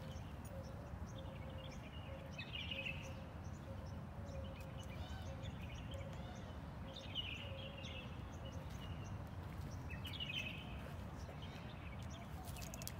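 Birds chirping in short warbling phrases every two to three seconds over a steady low background rumble, with a few sharp clicks near the end.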